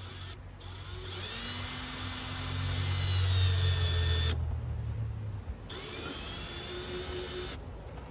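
Power drill driving screws in two runs, each spinning up to a steady whine; the first run is longer and heavier, with a low hum under it.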